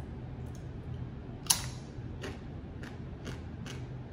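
A bite into a crisp breadfruit chip, one sharp crack about a second and a half in, followed by crunching as it is chewed, about two crunches a second.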